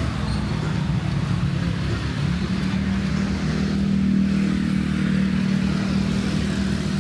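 Street traffic with a vehicle engine running close by, its steady low hum growing louder in the middle and then easing off.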